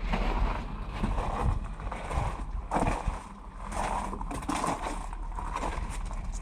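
Footsteps on a mountain trail, uneven crunches every half second to a second, over a steady low rumble of wind on the microphone.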